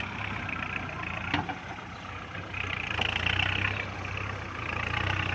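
Kubota MU4902 tractor's diesel engine running, its sound swelling about two and a half seconds in and again near the end, with a single brief knock a little over a second in.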